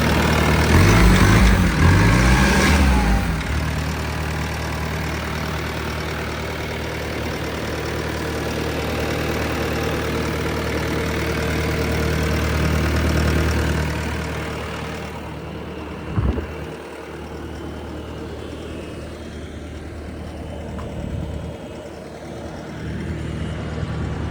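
Diesel engine of a Bobcat T590 compact track loader running. It is revved up and down a few times near the start, then runs steadily and settles quieter about two-thirds of the way through. A single short clunk comes soon after.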